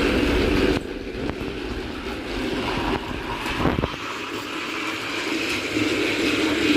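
Battery-powered motorised toy train whirring as it runs along its plastic track, a steady small-motor hum that drops in level about a second in.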